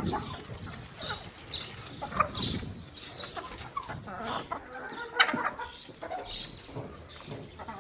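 Chickens clucking, with short irregular calls following one another.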